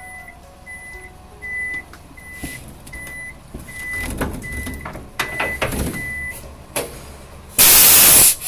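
A heavy-equipment backup alarm beeps steadily at one pitch, about one and a half beeps a second, over the rumble and clanking of heavy machinery. Near the end a loud blast of air hiss, like a truck's air brakes releasing, is the loudest sound.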